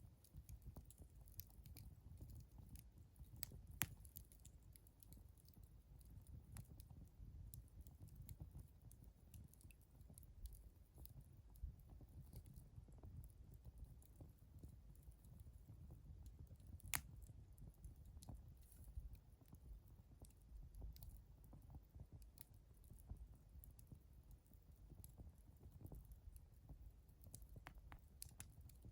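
Wood fire crackling faintly, with scattered small pops and two sharper snaps, about four seconds in and about seventeen seconds in, over a low steady rumble.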